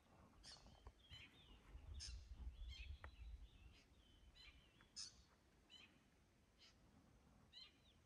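Faint birdsong in woodland: short, high chirps and whistles from several birds scattered throughout, with a low rumble about two to three seconds in.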